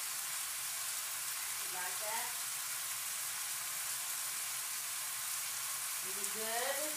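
Shrimp and chicken pieces sizzling steadily in a frying pan of sauce.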